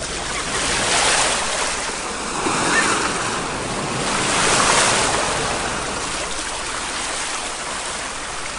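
Ocean waves breaking and washing in. The surf swells about a second in and again near the middle, then settles into a steady wash.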